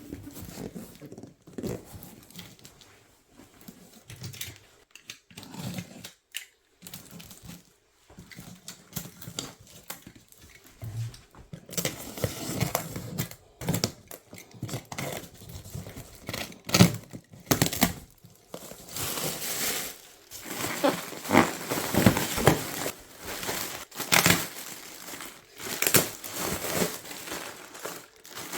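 Packaging being unwrapped and torn open: irregular crinkling and rustling of wrapping with scattered sharp clicks and knocks, busier and louder from about halfway through.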